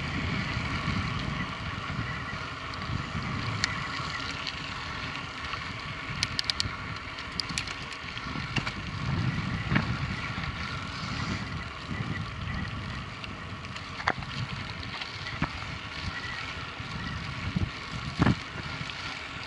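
Mountain bike being ridden, heard from a camera on the bike or rider: wind buffeting the microphone over a steady rumble, with scattered sharp clicks and rattles, a quick cluster of them about six seconds in.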